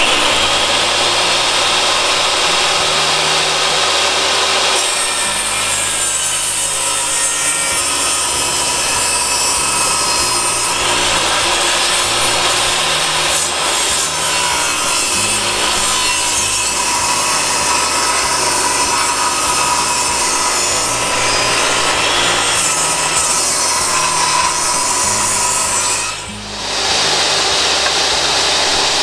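A saw cutting through wood, running almost without a break, with a short pause near the end.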